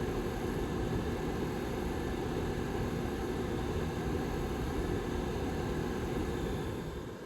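Rear fan of a Lasko 755320 ceramic tower heater running with a steady, low whir, starting to fade near the end.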